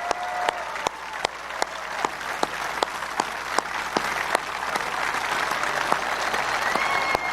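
Large outdoor crowd applauding and cheering, with sharp, evenly paced claps close by about every 0.4 s over the general clapping and a couple of brief whistles.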